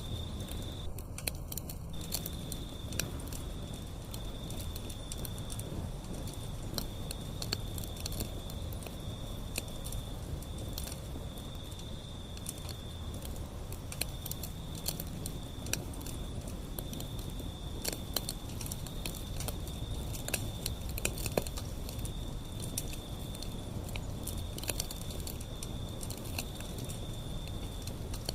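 Wood fire burning with a steady low rumble and frequent sharp crackles and pops. A thin, steady high-pitched tone runs behind it, breaking off now and then.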